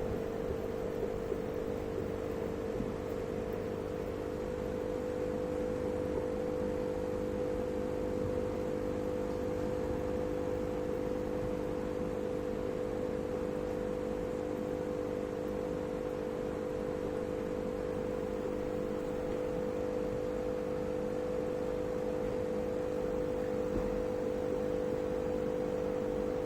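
Steady hum of an aquarium pump motor, an unchanging buzz-like tone over a low hiss.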